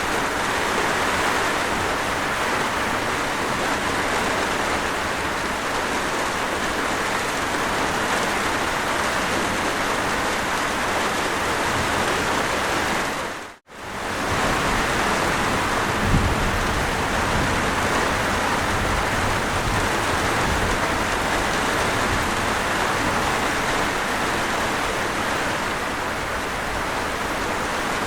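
Steady rain falling as an even hiss. About halfway through it fades out to silence for a moment and comes straight back, and a brief low thump follows a couple of seconds later.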